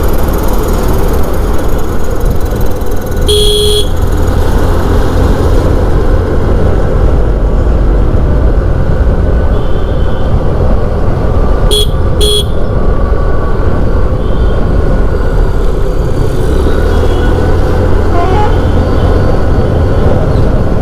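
Steady rumble of a motorcycle on the road, with engine and wind noise on the rider's mic. A vehicle horn sounds about three seconds in, and two short toots follow around twelve seconds in.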